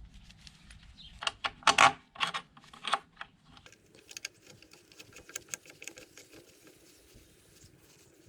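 A series of sharp clicks and knocks: several loud ones about a second in, then lighter, quicker ticking.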